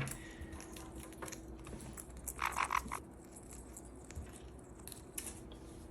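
Pet parrots nibbling nut crumbs, with faint scattered beak clicks, and one short harsh call from a parrot about two and a half seconds in.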